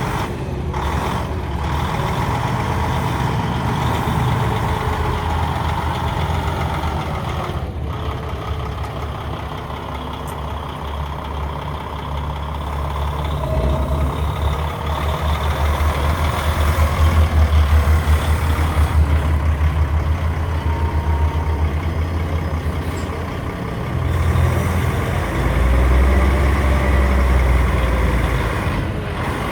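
Peterbilt 365 dump truck's Paccar MX turbo diesel engine running with a steady low drone, growing louder twice, about halfway through and again near the end.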